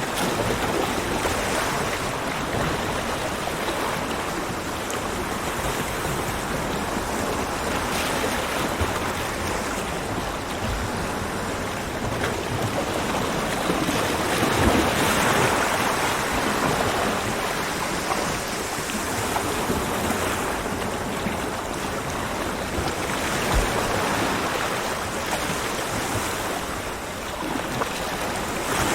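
Ocean waves breaking on a beach: a continuous wash of surf that swells and eases in slow surges, the biggest about halfway through.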